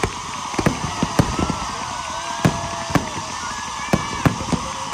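Fireworks going off: several sharp bangs at irregular intervals over a steady background crowd hubbub.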